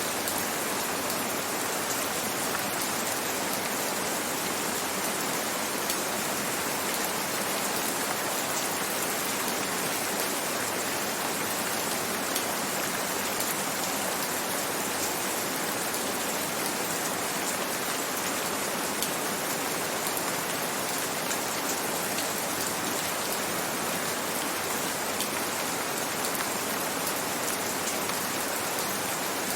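Steady gentle rain falling, an even hiss of drops with faint scattered patters.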